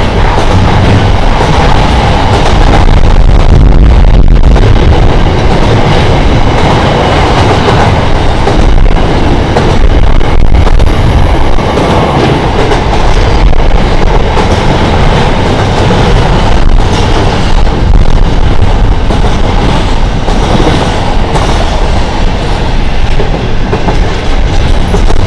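Container wagons of a freight train rolling past: a loud, steady rumble of steel wheels on rail, with scattered clicks as the wheels cross rail joints.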